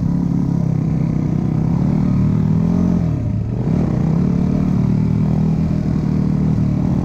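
Dirt bike engine running steadily, its pitch dipping briefly about halfway through and coming back up.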